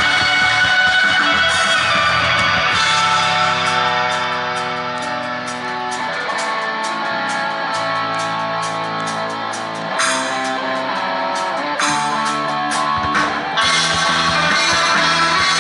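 Post-rock band playing live, led by electric guitars. A few seconds in it thins to a quieter passage of held guitar notes over fast high ticks, and the full band comes back in near the end.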